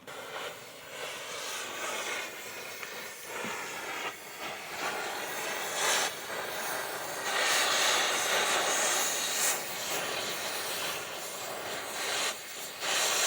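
Oxy-acetylene torch hissing as it heats a seized riveted joint to free it, the hiss growing louder for a few seconds around the middle and again near the end.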